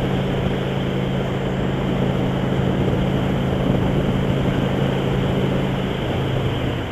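Motorcycle engine running at a steady cruise under a constant rush of wind noise; about six seconds in the engine note drops away as the bike slows.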